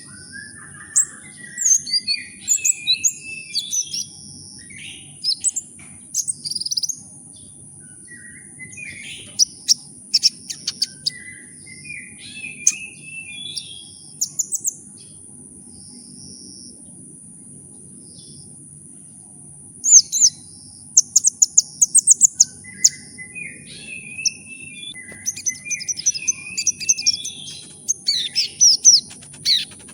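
Sunbird (the Indonesian bird-keepers' 'kolibri ninja') singing in bursts of rapid, high twittering trills and sharp chirps, with a pause of several seconds past the middle. A steady high-pitched whine and a low hum run underneath.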